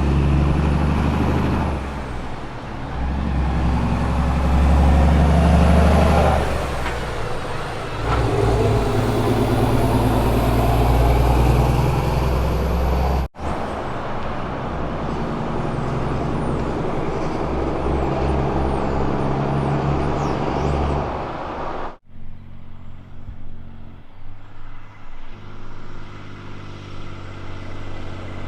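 Diesel road trains driving by, their heavy engines rising and falling in pitch as they pass. The sound breaks off abruptly twice, about 13 s and 22 s in, and is quieter after the second break.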